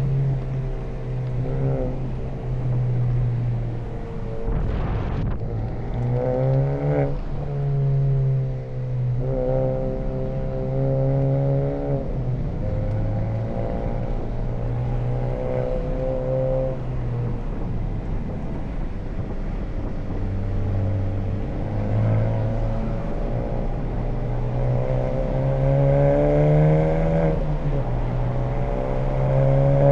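2020 Honda Civic Type R (FK8) 2.0-litre turbocharged four-cylinder, fitted with an HKS Legamax Premium exhaust, pulling hard on track. The engine note climbs and drops in pitch as it is driven through the gears, with a brief break about five seconds in and a long rising pull near the end.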